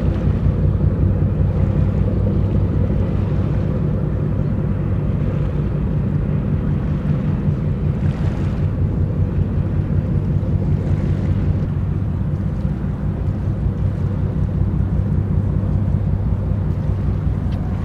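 Steady low drone of a large ship's engines running as the vessel gets under way.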